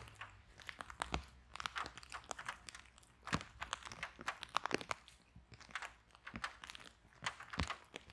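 Wood fire burning in a fireplace, crackling with irregular sharp pops and snaps, several a second, some much louder than others.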